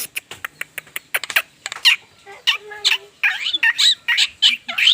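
Javan myna (jalak kebo) calling: a fast run of sharp clicks, then harsh squawks and chattering notes that glide quickly up and down.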